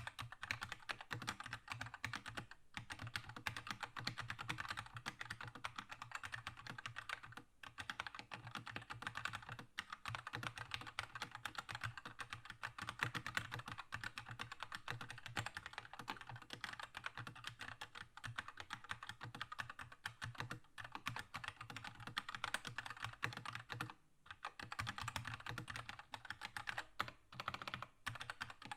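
Keychron K2 mechanical keyboard with red linear switches being typed on fast and continuously, a dense run of keystroke clacks broken by a few brief pauses.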